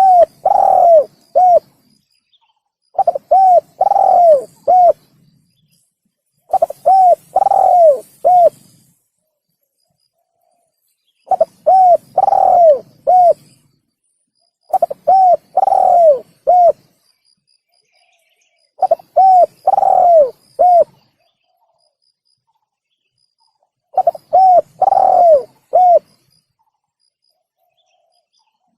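Spotted dove (tekukur) call played as a hunter's lure: seven phrases of short coos, each with a longer falling coo in the middle. The phrases repeat every three to five seconds, with silence between.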